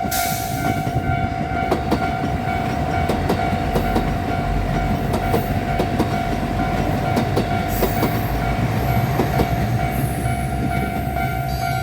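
Four-car KiHa 75 diesel multiple unit passing at speed, its wheels rumbling and clicking over rail joints and crossing work. A steady electronic level-crossing alarm tone sounds behind it.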